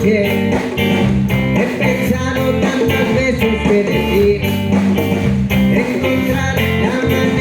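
A live band playing an upbeat song, guitar over bass with a steady beat, an instrumental stretch without lead vocals.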